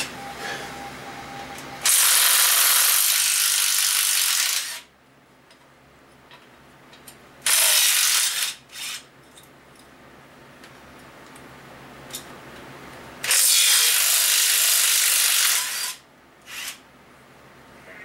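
Power tool running in several bursts, the longest about three seconds, with short blips between, spinning out exhaust manifold bolts on a GM 4.3 V6.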